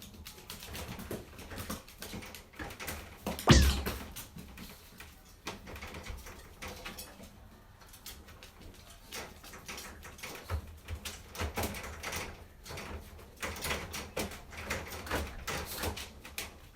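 Dogs moving and playing about a room: scattered clicks, scuffles and knocks throughout, with one loud thump about three and a half seconds in.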